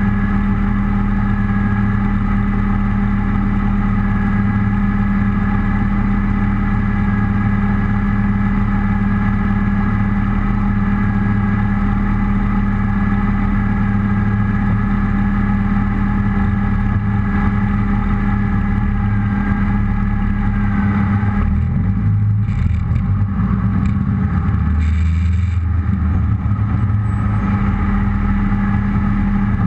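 Rally car engine idling with a steady note. The low rumble shifts for a few seconds about three quarters of the way through.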